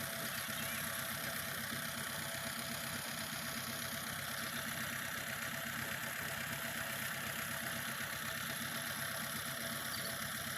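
Tractor diesel engine idling steadily at an even speed.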